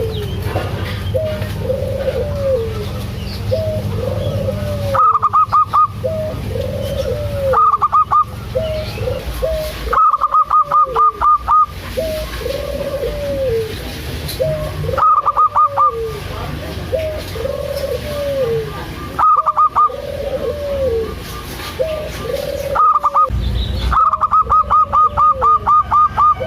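Perkutut (zebra doves) cooing: a low arched coo repeats about once a second, broken several times by louder bursts of rapid, higher staccato notes lasting about a second each.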